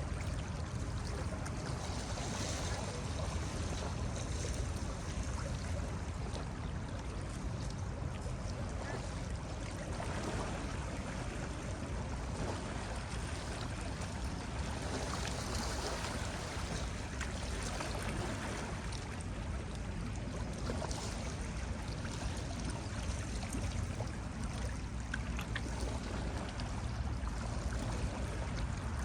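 Ocean waves breaking and washing on a beach: a continuous low rumble under a hiss of surf that swells and fades every few seconds.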